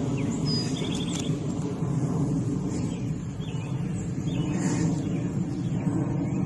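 Steady low outdoor rumble with a few short high bird chirps over it, about half a second in and again a few times between three and five seconds.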